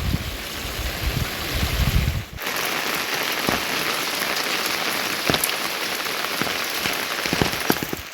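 Heavy rain falling in a steady hiss, with single drops tapping sharply close by. A low rumble under the rain stops abruptly about two seconds in.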